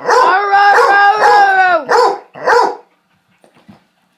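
Hound puppy baying: one long drawn-out bay lasting almost two seconds, followed by two short barks, then quiet.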